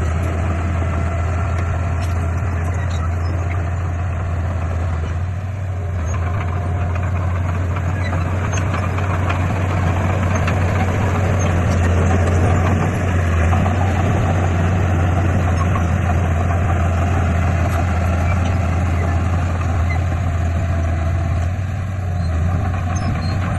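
Heavy diesel engine of earthmoving equipment running steadily, a deep constant drone with mechanical clatter. It grows somewhat louder about halfway through.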